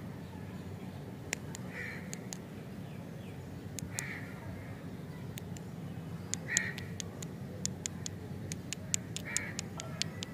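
Four short bird calls about two seconds apart over a steady low hum, with sharp clicks and ticks from fingers handling paper-wrapped lollipops; the ticks come thick and fast in the second half.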